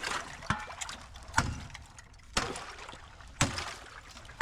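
Ice on a cattle water tank being broken: about five sharp strikes roughly a second apart, each cracking the ice, with water sloshing in between.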